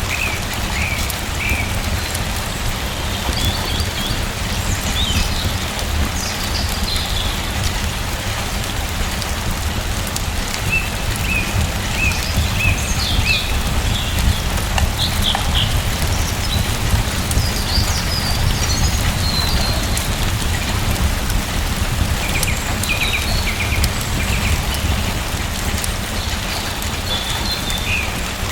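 Steady rain falling, an even hiss with a low rumble underneath, and small birds chirping in short bursts every few seconds.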